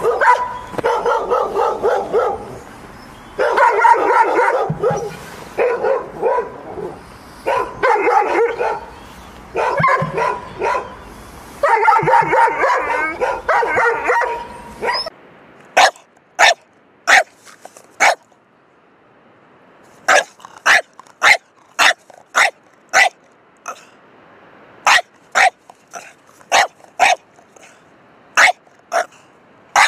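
Dogs barking: in the first half, runs of rapid, repeated barks with short pauses; about halfway through it changes to sharp single barks coming in small groups, roughly one to two a second.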